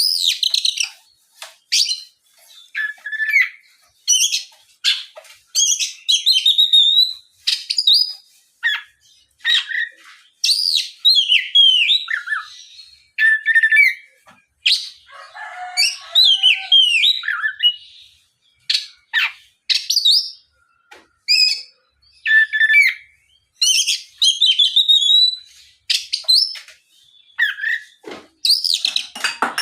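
Oriental magpie-robin (kacer) in full song: a loud, fast, varied run of whistled and chattering phrases broken by short pauses, with a lower, harsher chatter about halfway through. It is a vigorous challenge song of the kind used as a lure to make other magpie-robins answer.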